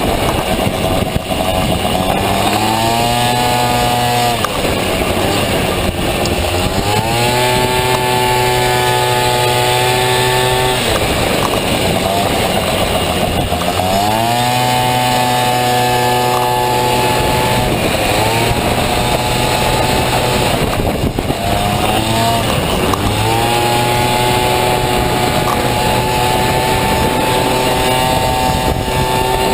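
Honda Motocompo with a Honda Dio two-stroke scooter engine running hard under racing throttle. The engine note climbs steeply about five times, holds high and steady, then falls away each time the throttle is eased.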